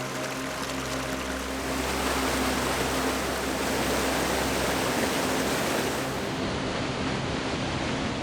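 Steady rushing of fast-flowing creek water, swollen by recent rain, growing louder for a few seconds in the middle. Background music fades out in the first second.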